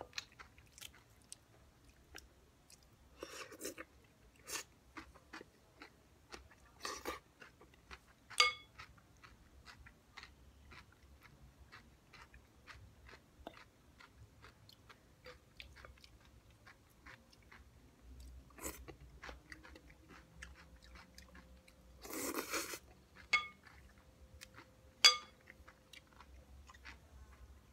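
Close-up chewing and crunching of a Shopska salad of raw cucumber, tomato, onion and white cheese, with wet bites between short clicks. A wooden fork clinks against the bowl a few times with a brief ring, loudest about eight seconds in and near the end.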